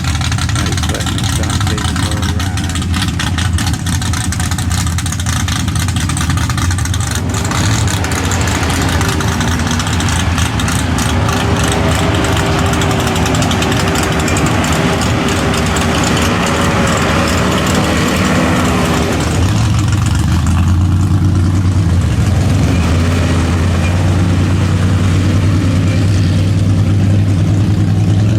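High-horsepower mud bog truck engine running loud throughout, its pitch rising and falling as it revs. About two-thirds of the way through it settles into a deeper, steady drone.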